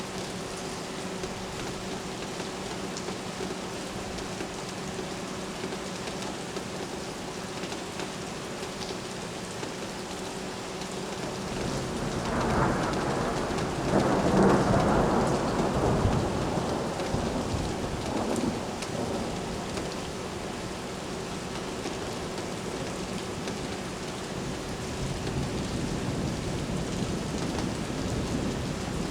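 Steady rain falling, with a long roll of thunder that builds about a third of the way in, peaks near the middle and rumbles away over several seconds.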